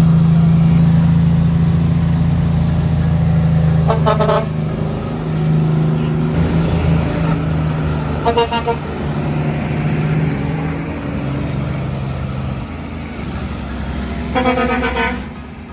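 Heavy truck engine running with a steady low drone, and a truck horn sounding three times: about four seconds in, about eight seconds in, and a longer blast near the end.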